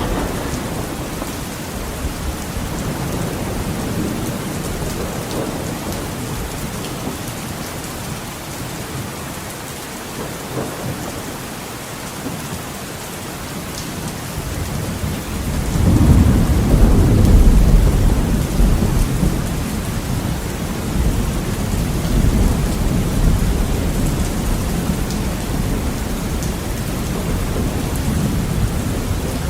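Heavy rain on a window, a steady hiss, with a deep rumble of thunder building about halfway through, loudest a couple of seconds later, then rolling on under the rain.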